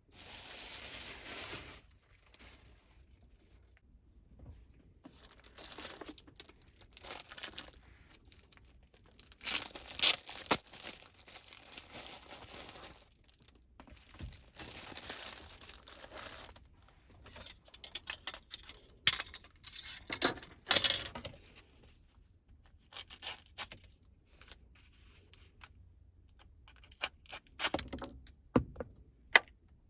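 Plastic packaging or wrap being torn and crinkled in several bursts of one to three seconds each, followed in the second half by a run of short clicks and knocks from handling.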